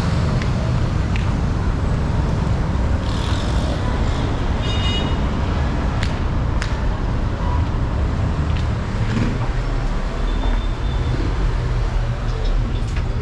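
Steady city road traffic, a continuous rumble of engines and tyres. A brief high-pitched tone sounds about five seconds in, followed by two sharp clicks about a second later.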